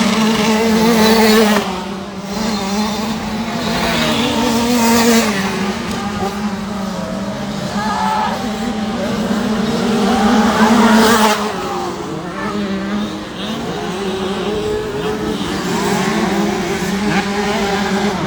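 Several small 65cc two-stroke motocross bikes racing, their engines revving up and falling off in turn as they work round the track. It is loudest as bikes pass close, about a second in, around five seconds and again around eleven seconds.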